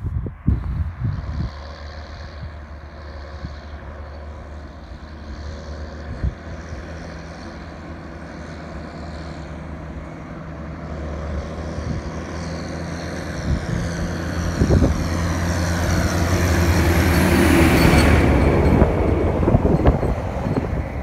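Heavy diesel silage-harvest machinery driving past: a low engine drone grows steadily louder, peaks late with a high whine that falls in pitch as the machine goes by, then begins to fade.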